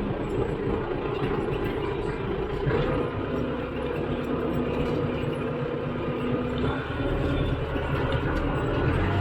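Tractor engine running steadily, its note shifting about three seconds in and again near seven seconds.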